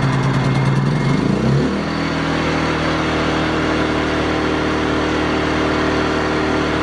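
WEN 56200i inverter generator engine running steadily. About a second and a half in, its note wavers and shifts as the choke is taken off, then it settles into a new steady hum.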